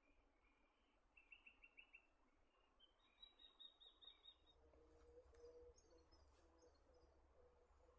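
Faint wild birdsong in quiet outdoor ambience: a quick series of repeated notes about a second in, and another series of repeated higher notes around three seconds in.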